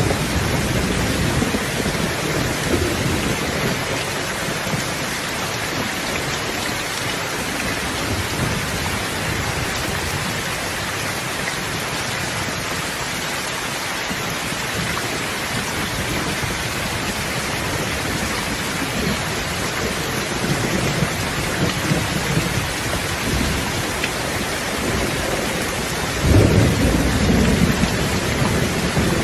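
Thunderstorm: steady rain falling throughout, with low thunder rumbling. One rumble fades out over the first few seconds, and a louder one breaks in about 26 seconds in.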